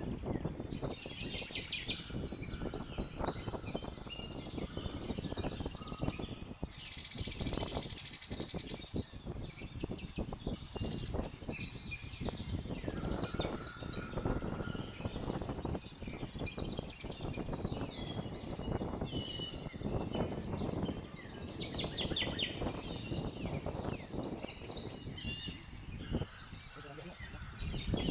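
Small birds chirping and calling over and over, over a steady low background rumble.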